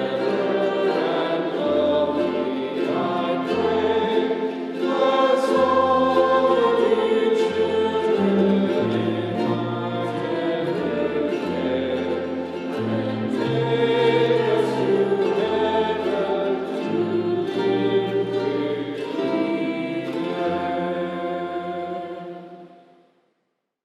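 Choir singing with instrumental accompaniment and a moving bass line, fading out near the end.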